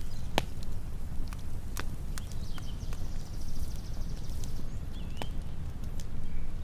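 Wood campfire crackling with irregular sharp pops over a low steady rumble, while birds call and trill faintly in the background.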